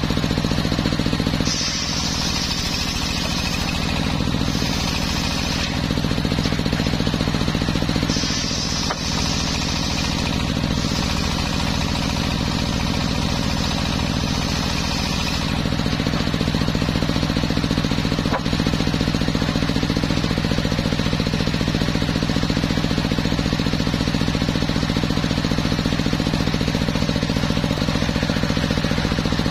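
Homemade engine-driven circular sawmill running steadily, its saw blade cutting through teak, with a higher hissing edge that comes and goes in stretches of a few seconds during the first half.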